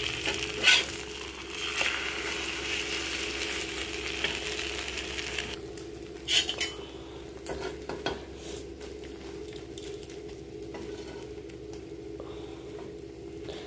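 Mushroom omelette sizzling in butter on a hot griddle as it is flipped and pressed down with a metal spatula, which clicks and scrapes against the pan a few times. The sizzle is strong at first and drops to a quieter fry about halfway through.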